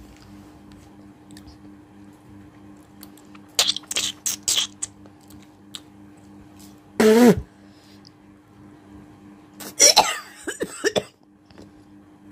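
A woman hocking: hawking phlegm up from the throat and spitting, in three goes. There are short wet clicks and spits about four seconds in, a short throaty hock about seven seconds in, and a longer raspy hawk ending in spits about ten seconds in.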